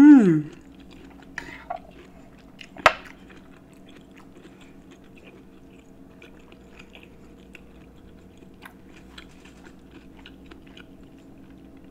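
A person chewing a mouthful of pepper steak (sliced beef, bell peppers and onion in gravy) close to the microphone: faint, scattered wet mouth clicks, with one sharp click about three seconds in.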